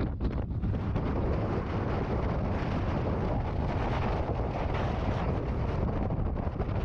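Antarctic blizzard wind blowing hard and steadily, buffeting the microphone.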